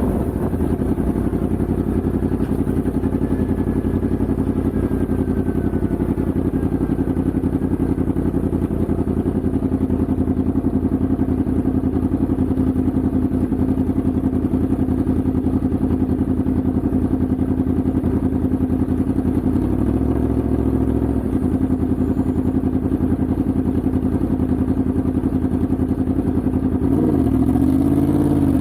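Yamaha MT-10's crossplane inline-four engine running steadily at constant revs; near the end the revs dip briefly, then climb quickly as it accelerates.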